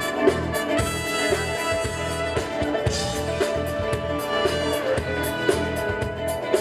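Live band playing an instrumental disco-funk passage: a steady drum beat under bass and sustained horn or keyboard lines, with no vocals.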